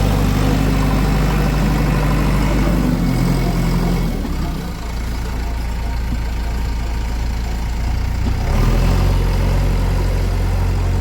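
Heavy diesel engine running with a steady low drone. It eases off about four seconds in and picks up again about eight and a half seconds in.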